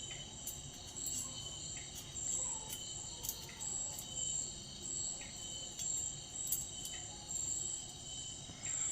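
Insects chirping steadily in the background, a high pulsing trill, with a few faint scattered clicks.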